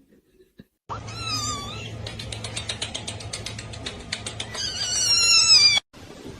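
Kitten mewing: high-pitched calls that fall in pitch, a couple about a second in and a louder run of them near the end, before the sound cuts off suddenly.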